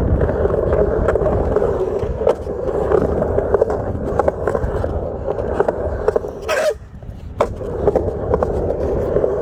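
Skateboard wheels rolling steadily, with scattered small clicks. Near two-thirds through, a sharp clack, the rolling drops out for about half a second, then another clack as it resumes.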